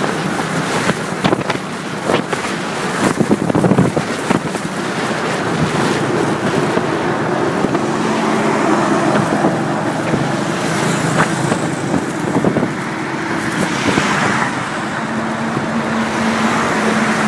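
Motorcycle riding along a road: the engine runs steadily under wind buffeting the microphone, with some knocks in the first few seconds.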